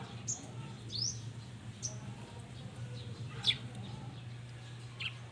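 Small birds chirping: about five short, high calls, some sweeping quickly downward, the loudest about three and a half seconds in, over a steady low hum.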